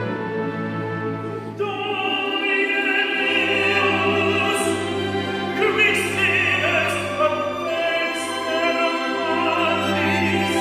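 Chamber orchestra with strings playing a sung Mass setting. A classical solo voice enters about one and a half seconds in and sings with vibrato over the strings.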